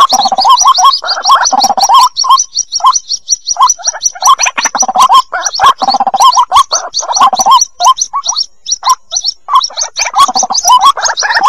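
White-breasted waterhen (ruak-ruak) chicks calling: a fast, unbroken string of short high peeps. Over it come repeated bursts of lower, chattering calls.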